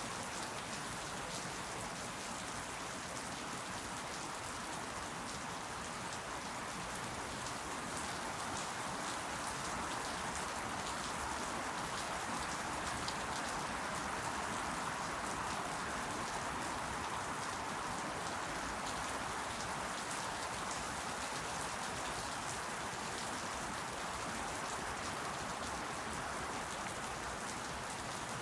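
Steady rain falling, with fine drops pattering on leaves.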